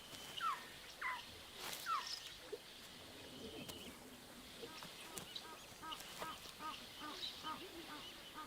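Birds calling: three short falling calls in the first two seconds, then a run of short, evenly repeated chirps, about three a second, through the second half.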